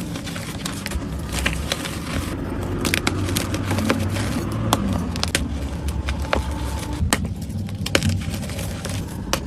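Gym chalk being crushed and crumbled by hand: a dense run of crisp, crunchy crackles with sharp snaps scattered throughout, over a low rumble.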